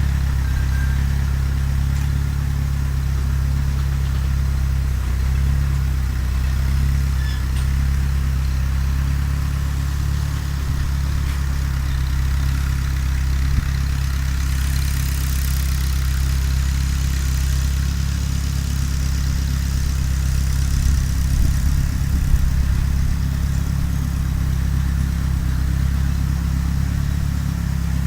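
Fiat 352C tractor engine running steadily at an even speed, with a brief hiss about halfway through and a few small knocks a little later.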